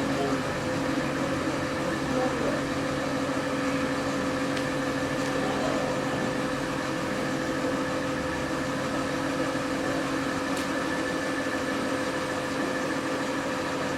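Steady machine hum with several held tones, unchanging in pitch and level, like an engine or motor running at a constant speed.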